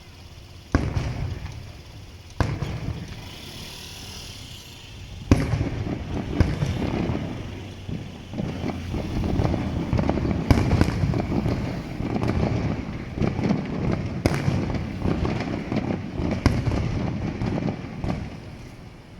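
Aerial fireworks bursting: single sharp bangs about a second and two and a half seconds in, another after five seconds, then a rapid barrage of overlapping bangs and crackling that dies away near the end.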